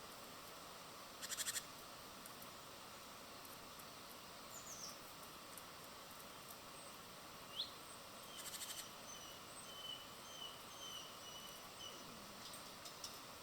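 Small birds calling at a feeder, faint over a steady hiss: two short rapid buzzy rattles, a couple of quick chirps and a string of short high notes in the second half.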